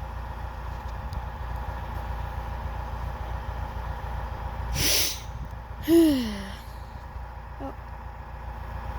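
Steady low drone of a tractor engine running nearby. About five seconds in there is a sharp sniff, and just after it a brief voice-like sound that falls in pitch, the loudest moment.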